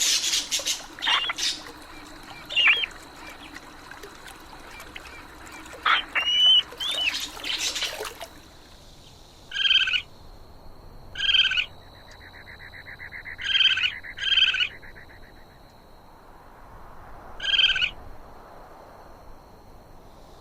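Animal calls: a few short, sharp gliding calls, then from about eight seconds in a series of short calls of the same pitch, one every one to three seconds, with a brief buzzing trill among them.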